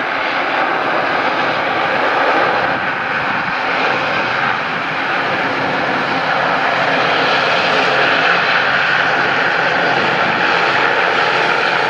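Aircraft engines running, heard as a steady rushing noise that builds slightly in the first seconds and then holds with slow swells.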